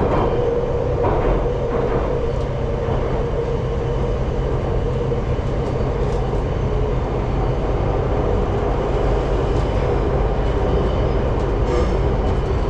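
Metro train on Budapest's M2 line heard from inside the carriage while running between stations: a steady rumble of wheels and motors with a constant hum.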